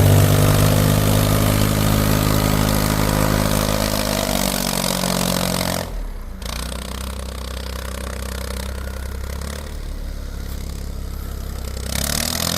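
A vehicle engine running with a steady hum, easing down in pitch, then dropping abruptly to a quieter, lower running note about six seconds in.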